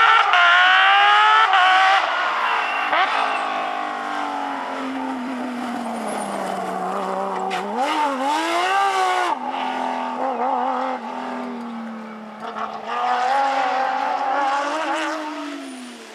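Porsche rally car's flat-six engine revving hard and shifting up, then running at steadier revs with a quick dip and rise in revs about eight seconds in. Another loud burst of throttle follows before the engine sound fades away near the end.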